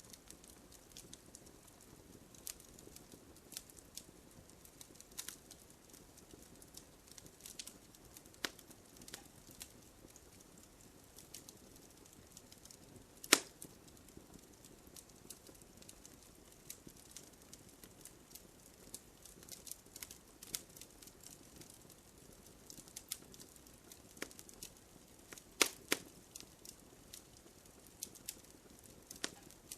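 Wood campfire crackling: irregular sharp snaps and pops of burning wood over a low, steady hiss, with one loud pop about halfway through and a close pair of loud pops near the end.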